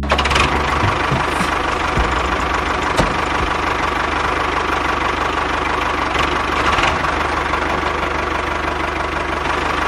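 Small electric motor of a miniature DIY model machine running steadily with a fast, even buzz, and a few sharp clicks along the way.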